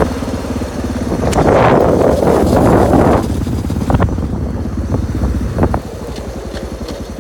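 Dirt bike engine running. It grows louder and rougher for about two seconds from about a second in, then drops back to a lower, steadier run near the end.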